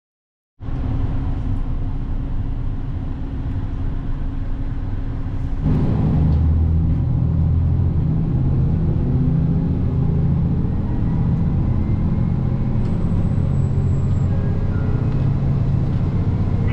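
Vehicle engine running with a steady low rumble; a little over five seconds in, the engine note strengthens and grows louder, as under more power.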